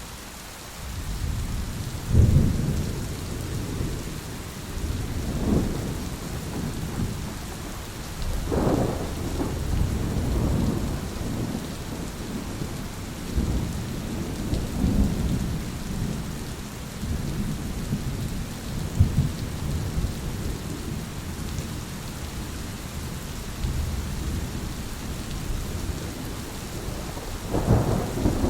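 Steady rain falling through a thunderstorm, with low thunder rolling almost continuously and swelling several times, the first big swell about two seconds in.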